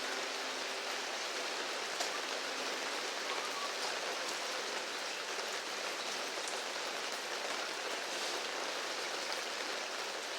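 Steady rain falling, an even hiss of raindrops, with the last faint piano tone dying away in the first moment.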